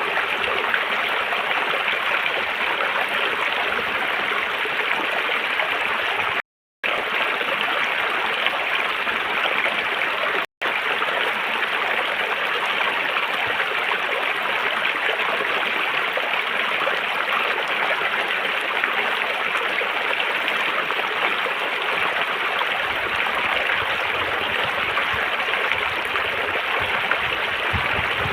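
River water flowing steadily over rocks with an even rushing and gurgling, which twice cuts out to silence for a moment, about six and a half and ten and a half seconds in. A deeper rumble joins the flow about three quarters of the way through.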